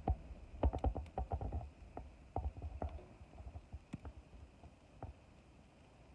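Irregular sharp clicks and knocks: a quick cluster about a second in, then scattered single ones, over a low rumble.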